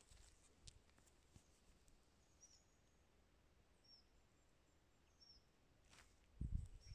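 Near silence: a few faint, short, high bird chirps spread out a second or more apart, and a low thump near the end.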